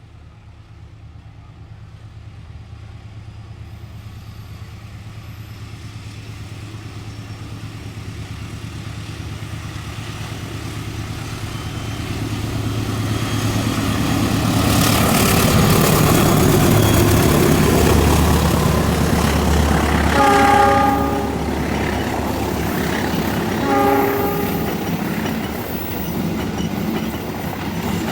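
Passenger train approaching, growing steadily louder until its locomotive passes close by, then two blasts of its horn, the first about a second long and the second shorter, followed by the rhythmic clatter of the coaches rolling past on the rails.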